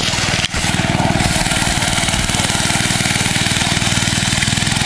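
Mini bike's small engine running steadily, with a brief dip about half a second in.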